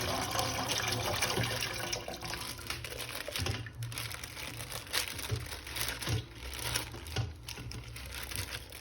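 Running water splashing, with light crinkling and scattered clicks of a plastic toy being handled; the water is loudest for the first couple of seconds.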